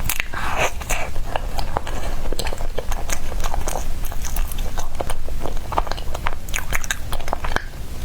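Close-miked chewing of soft bread: a quick run of small irregular mouth clicks and smacks, with a slightly longer rustly bite or tear near the start.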